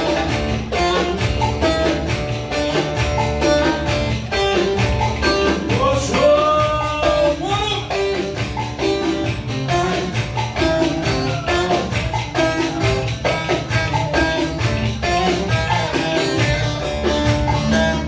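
Ankara folk dance music (oyun havası), played instrumentally. A fast, even percussion beat runs under a busy stepping melody.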